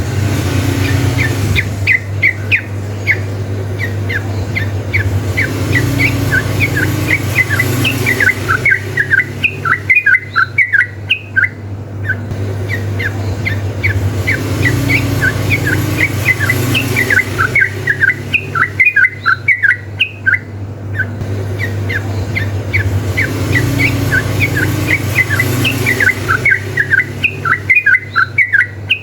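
Yellow-vented bulbuls (trucukan) singing in fast, rapid-fire chattering phrases, several birds overlapping as in a song duel; the bursts swell and ease off in a cycle of about nine seconds. A steady low hum runs underneath.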